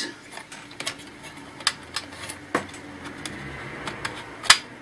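Scattered sharp clicks and taps from the plastic and metal parts of an old laptop being handled and pried at, with the loudest click near the end.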